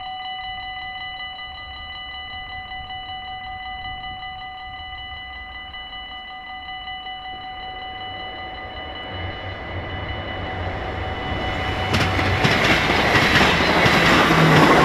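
Level crossing warning bells ringing steadily while an NS passenger train approaches. The train's rumble grows from about eight seconds in, then turns to a loud rush and wheel clatter as it passes close by near the end.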